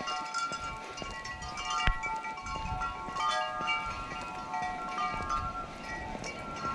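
Many hanging wind chimes ringing in the wind, clear metal tones overlapping and fading at staggered times, with one sharp click about two seconds in.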